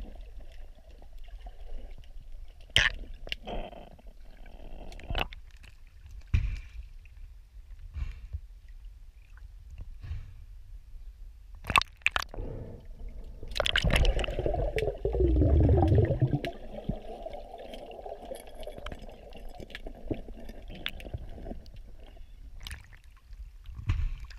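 Water lapping and gurgling against a sailboat's hull, with scattered sharp clicks and knocks. A louder stretch of sloshing comes in the middle, lasting about eight seconds.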